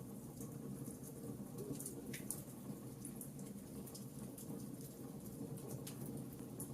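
Fireplace fire crackling: a steady low rumble of flames with scattered sharp pops, a clearer one about two seconds in and another near the end.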